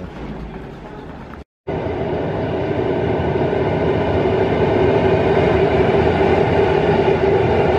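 Electric passenger train running across a concrete rail viaduct: a steady rumble with a hum on top, growing louder for a few seconds as it comes closer, then holding. It comes in after a brief break in the sound about a second and a half in.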